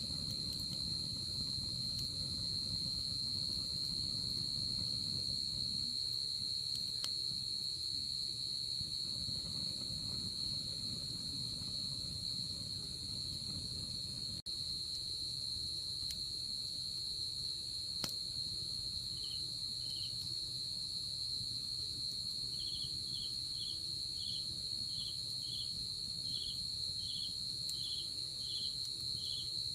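Night insects calling: a continuous high trill, with a second insect chirping in short, evenly spaced pulses, about two a second, in the last third. Underneath, the low rustle of a wood fire burning, with an occasional faint crackle.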